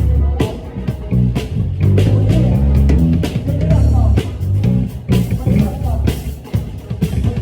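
A band playing an upbeat funk song, with a busy, stepping bass line, a drum kit's regular hits and electric guitar.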